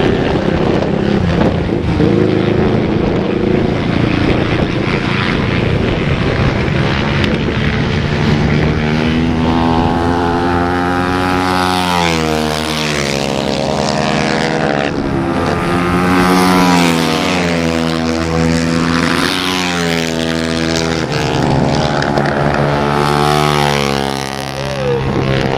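Several single-cylinder flat-track racing motorcycles running. From about ten seconds in, their engines rev up and down in pitch together, rising and falling through the gears.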